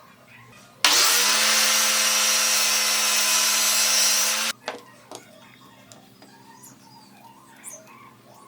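A small handheld electric power tool spins up quickly, runs at a steady pitch with a harsh hiss for about three and a half seconds, then stops suddenly. Faint clicks of handling follow.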